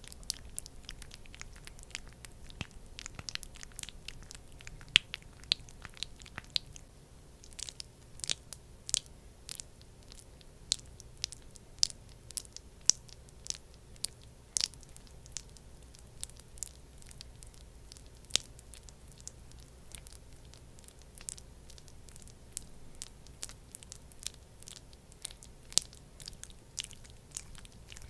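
Thick, sticky skincare product being worked close to the microphone: irregular wet clicks, crackles and squishes, several a second, bunched in places.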